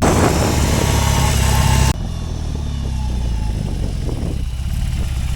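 BMW R18's 1800 cc boxer twin running through modified, louder fishtail exhaust pipes, a deep, loud exhaust note. It cuts abruptly about two seconds in to a quieter stretch of the same engine sound.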